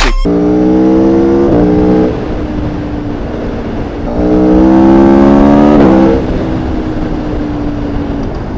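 Aprilia Tuono V4 motorcycle engine heard from on board, accelerating with its pitch climbing and then dropping at upshifts about a second and a half in and again around six seconds. Between the two pulls it runs quieter on lighter throttle, with wind rushing past throughout.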